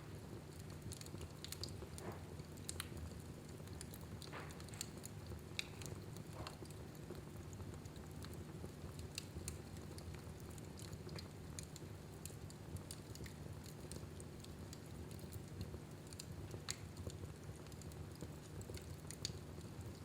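Wood fire burning in a fireplace: irregular small crackles and pops over a low steady rumble.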